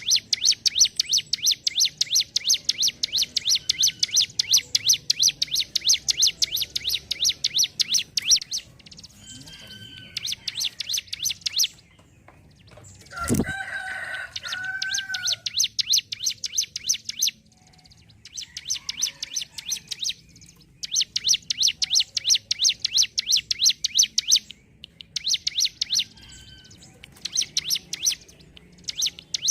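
Ciblek gunung, a prinia, singing in long runs of rapid, evenly repeated sharp chattering notes, broken by short pauses. About 13 seconds in, a louder, lower call with a bending pitch cuts in.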